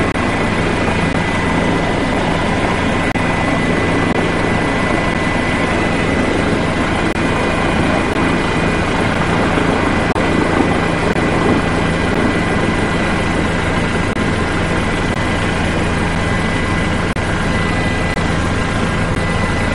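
Steady aircraft noise: a continuous engine rush with a low hum and a thin, high, steady whine.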